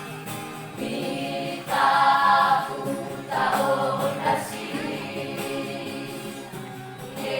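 A school vocal group singing a gospel song in harmony, the voices swelling into louder phrases about a second and two seconds in.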